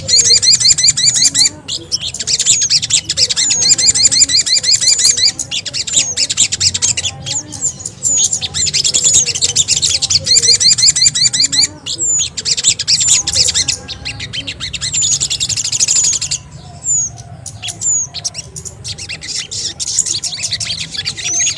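Bird-lure recording of sogon and kemede (bangcit) calls: dense, rapid high chirping and trills mixed with short, sharp down-slurred whistles. The chirping thins to scattered single notes for a couple of seconds past the middle, then builds back up.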